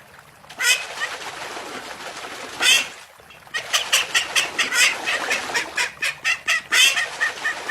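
A chicken squawks loudly twice, then breaks into a rapid run of squawks, about four or five a second.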